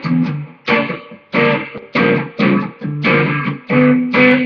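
Guitar strumming chords in a steady rhythm, about one strum every two-thirds of a second, during an instrumental break in a song.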